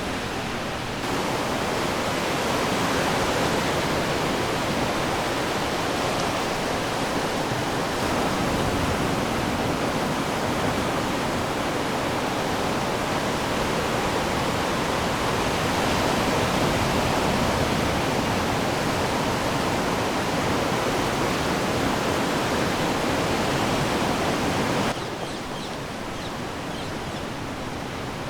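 Ocean waves washing on the shore in a steady, continuous rush of surf. The level steps up about a second in and drops suddenly near the end.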